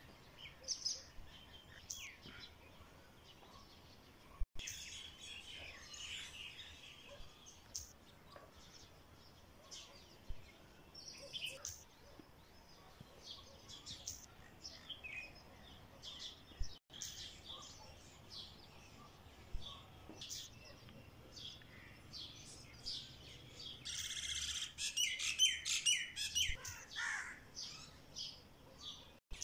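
Small songbirds chirping and twittering in short, scattered calls, growing into a dense burst of rapid chirps near the end.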